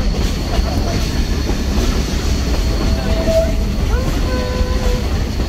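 Narrow-gauge excursion train heard from its open passenger car: a steady rumble from the running gear with light clacking over the rail joints. Brief thin tones sound over it about three and four seconds in.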